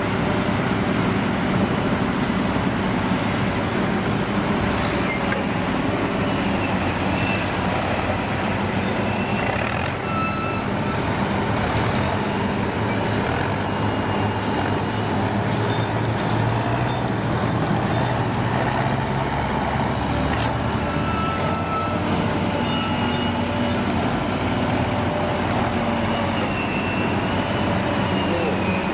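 Heavy diesel truck engines running steadily, their note shifting now and then.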